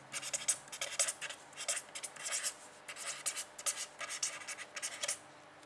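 A pen scratching across a writing surface in quick, irregular strokes of writing or drawing, stopping about five seconds in.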